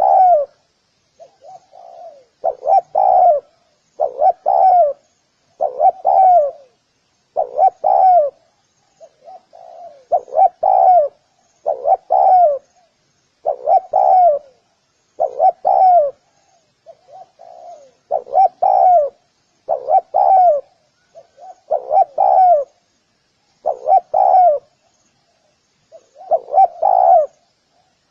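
Spotted dove cooing: a short phrase about every second and a half, repeated without a break, with a few fainter coos in between.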